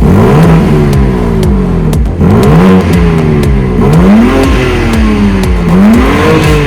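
BMW M4 Competition's twin-turbo inline-six exhaust, revving hard several times: the engine note climbs sharply about four times, and each time falls back more slowly.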